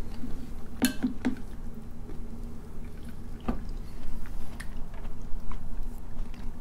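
Close-miked chewing and wet mouth sounds of people eating soft curry and rice, with a few sharp clicks and taps scattered through.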